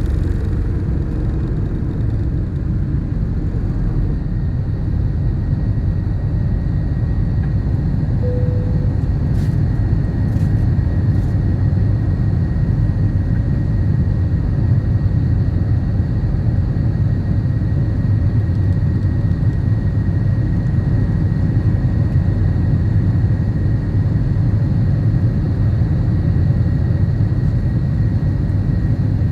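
Airplane engine noise: a steady low rumble with a faint steady high-pitched whine.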